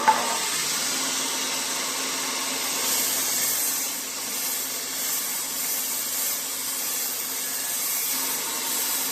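Belt sander running steadily, its 180-grit belt grinding lightly against a nickel-plated Colt Combat Commander 1911 frame to take down the pitting: a steady motor hum under a bright grinding hiss, with a short knock at the very start.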